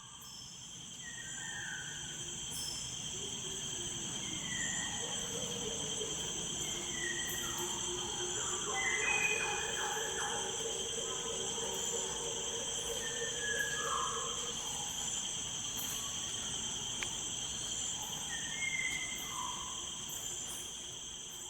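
Steady chorus of insects trilling continuously, with short bird chirps scattered over it.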